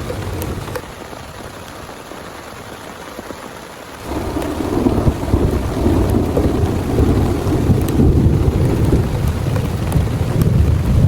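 Heavy rain falling steadily with thunder: a deep rumble dies away over the first seconds, then a new long rolling rumble sets in suddenly about four seconds in and carries on.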